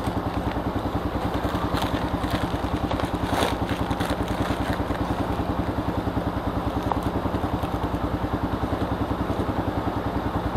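Manual-gear motorcycle engine idling steadily with an even, rapid low pulse.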